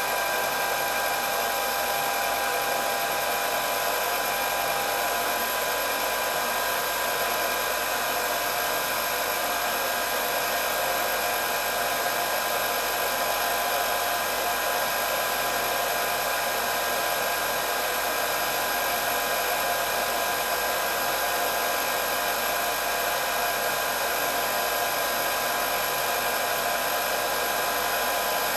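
Electric hair dryer running steadily: a constant rush of blown air over a fan motor's whine, with several fixed high tones and no change in speed.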